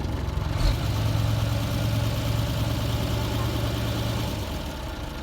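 Motor vehicle engine idling steadily. A short thump comes under a second in, then a louder low hum that drops away after about four seconds.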